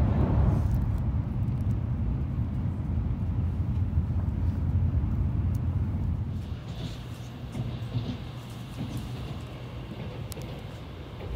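Steady low rumble of a Tokaido Shinkansen train running, heard inside the passenger cabin. It drops in level about six seconds in, where a faint high hiss joins.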